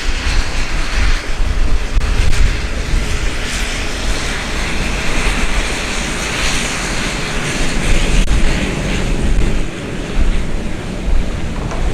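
Aircraft engines running loud and steady, an even rush of engine noise over a heavy low rumble, dipping briefly near the end.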